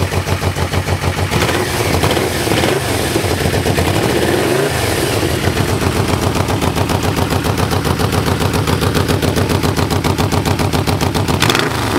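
1988 Yamaha VMax V4 engine at a slow cold idle, with a steady pulsing exhaust beat. It runs through stock mufflers whose rear baffles have five 3/8-inch holes drilled in them for more sound.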